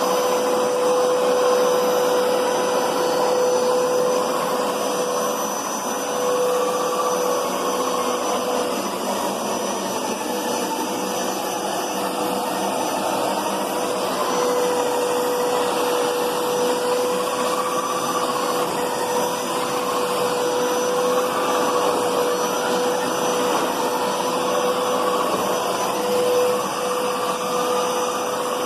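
Hoover Power Scrub Deluxe carpet cleaner running steadily, its suction motor whining together with the motor-driven spinning brushes as it scrubs carpet. The whine's pitch wavers a little up and down.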